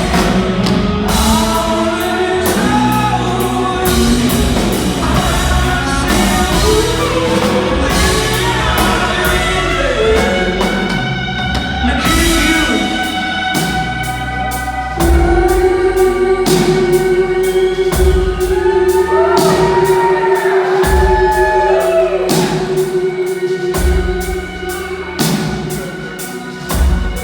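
Rock band playing with drum kit, guitar and singing. A long note is held for several seconds starting about halfway through.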